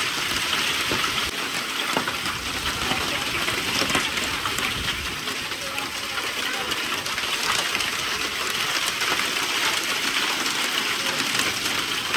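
Heavy downpour on corrugated metal roofing: a steady, dense hiss of rain with many small sharp ticks of drops striking the sheets, and water pouring off the roof edges.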